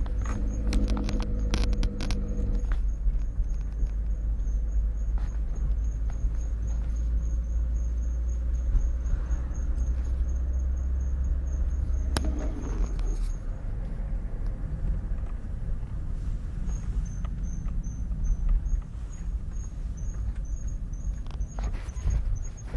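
Car brake squeak while driving: a faint high-pitched chirp repeating a few times a second with the turning wheel, over steady road rumble. The chirping stops for about three seconds past the middle, as when the brakes are applied, then returns at a slower pace; the squeak came from worn brake pads.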